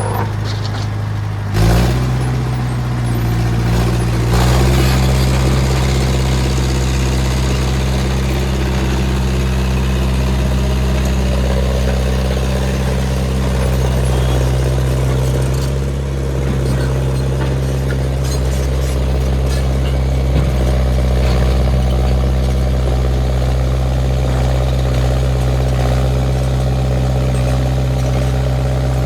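International 125 crawler loader's engine, just started, picking up about two seconds in and settling into a steady idle.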